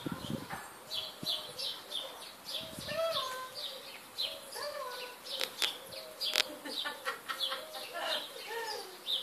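Small birds chirping rapidly and repeatedly, high-pitched. Under them a husky whines steadily, its pitch wavering and rising a few times, with a few sharp clicks around the middle.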